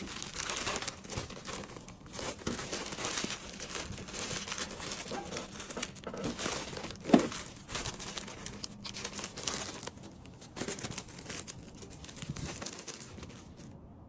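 Packaging crinkling and rustling as small items are handled and packed, with short crackles throughout and one sharp tap about seven seconds in.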